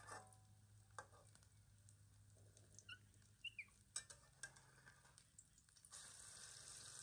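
Faint clinks and scrapes of a metal spatula against a steel wok, then about six seconds in, food in the hot wok starts sizzling steadily.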